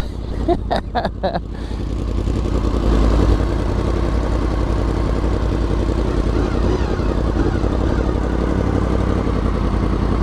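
Motorcycle riding onto a highway: engine running under wind noise on the rider's helmet, getting louder over the first few seconds as it speeds up, with a few short clicks or knocks near the start.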